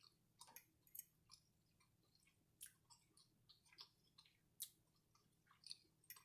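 Faint wet mouth clicks and smacks of someone chewing food with the mouth close to the microphone, irregular, a few a second.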